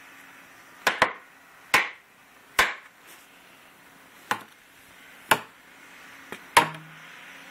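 Footsteps crunching in deep snow: six sharp crunches at an uneven walking pace, roughly one a second, with a longer gap in the middle.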